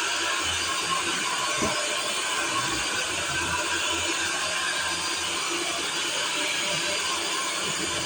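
Vacuum cleaner running steadily: an even hiss of motor and airflow at a constant level.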